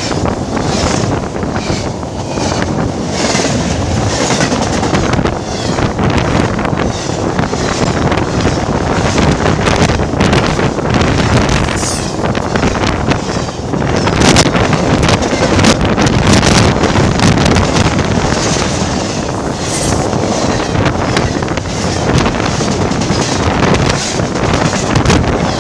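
Freight train passing close by, a loud steady noise with heavy wind buffeting the microphone.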